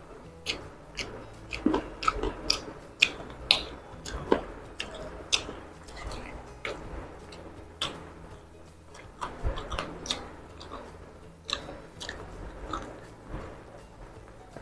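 Close-up mouth sounds of a person chewing and biting fried chicken breast, with many sharp, irregular wet clicks and smacks.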